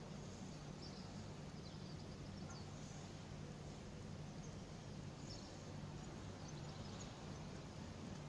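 Faint outdoor background: a steady low hum with occasional short, high chirps from small birds.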